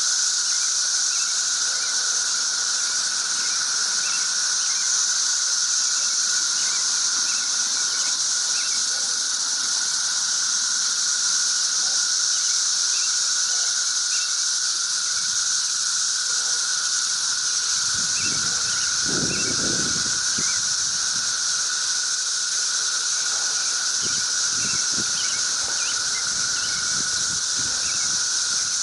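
A loud, unbroken chorus of many cicadas droning together, a shrill high hiss with a steadier, lower whine beneath it. A few brief low rumbles come through about two-thirds of the way in.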